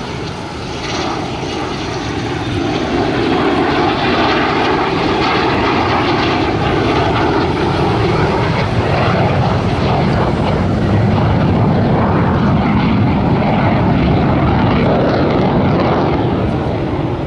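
A fixed-wing airplane's engine running loud and steady, growing louder over the first three seconds. In the second half its sound shifts lower, then eases slightly near the end.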